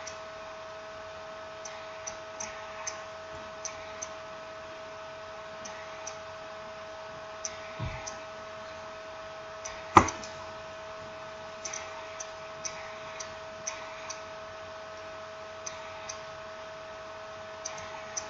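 Scattered small clicks and taps of smartphone parts and tools being handled during reassembly, with one sharper click about ten seconds in, over a steady electrical hum.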